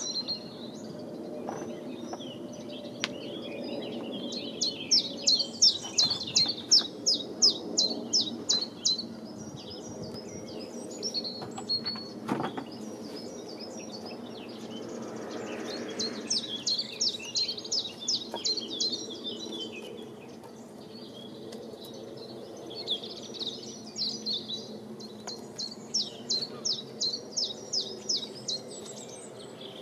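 Small birds singing: runs of rapid, high-pitched chirps, several notes a second, coming in bursts a few seconds long. Under them runs a steady low hum, and there is a sharp knock about twelve seconds in.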